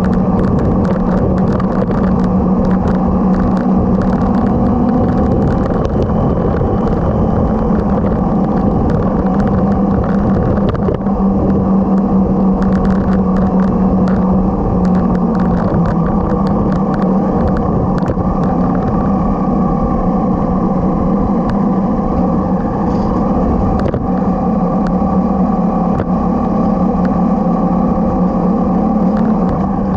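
Motorcycle engine running at a steady cruising speed, heard from on the moving bike, its pitch holding almost level throughout, with many short knocks and taps over the drone.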